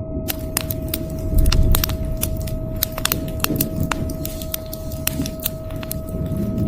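Wood fire crackling with frequent sharp, irregular pops over a steady low rumble. The rumble swells louder about a second and a half in. A faint steady tone sits underneath.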